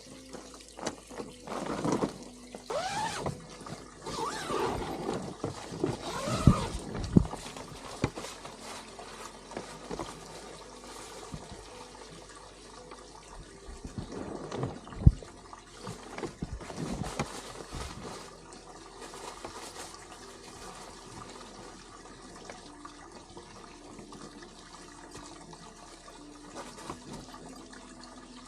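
Water pouring and splashing in uneven bursts, busiest in the first few seconds and again about halfway, then settling to a faint steady trickle.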